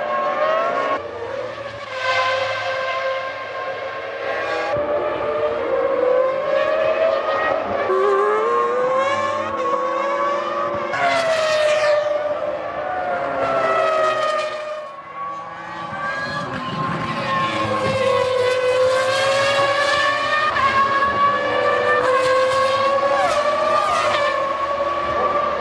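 Formula One cars' 3.0-litre V10 engines at high revs, the pitch climbing through each gear and dropping back at each shift, with one car passing close about eleven seconds in.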